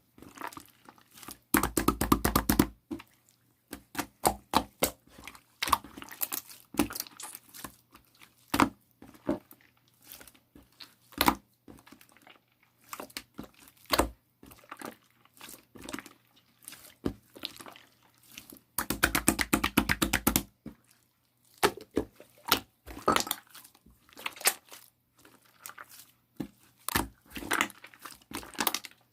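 Chewy glitter slime being squeezed, stretched and poked by hand, giving irregular sticky clicks and pops. Twice, about two seconds in and again about nineteen seconds in, there is a stretch of rapid crackling pops lasting one to two seconds.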